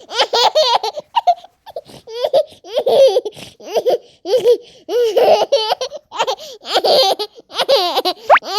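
High, childlike laughter in a long run of short bouncing bursts. Near the end comes a quick rising whistle-like glide.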